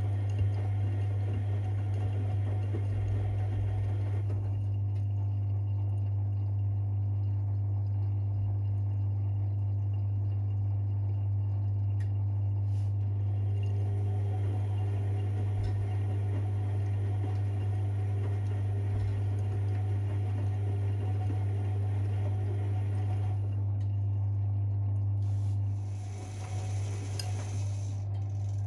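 Privileg 5020 front-loading washing machine running its Easy-Care 40° cycle: a steady deep hum with water sounds from inside the drum. The sound changes briefly near the end.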